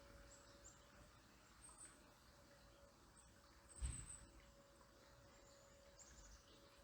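Faint, high, thin bird chirps scattered through a quiet outdoor background, with one short low thump just under four seconds in.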